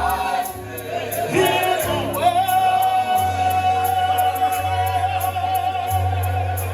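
Live gospel music: a singer holds one long high note from about two seconds in, over a bass line and steady cymbal taps.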